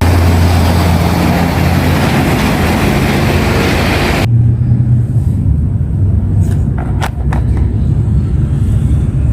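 A steady low rumble, with a loud hiss over the first four seconds that cuts off suddenly, then a few faint clicks.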